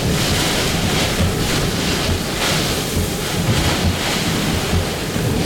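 Hurricane-force wind blowing in surging gusts, with heavy wind buffeting rumbling on the microphone.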